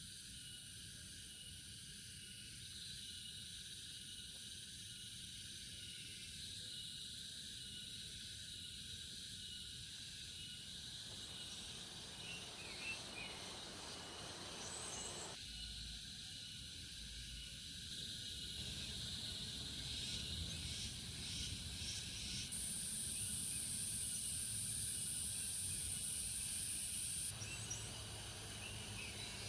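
Forest ambience of insects chirring steadily at a high pitch, with a louder, higher insect drone for about five seconds near the end.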